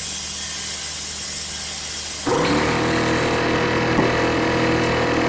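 Compressed air hissing as it flows through an inflator into a lawn tractor tire. About two seconds in, an air compressor's motor kicks on, winds up briefly and then runs steadily.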